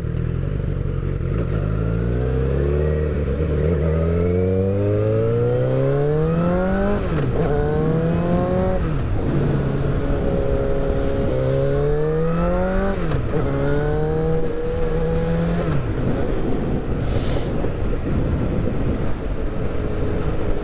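Motorcycle engine pulling away and accelerating through the gears: its pitch climbs, drops sharply at each upshift, about four times, then settles into a steady drone with wind rush at cruising speed.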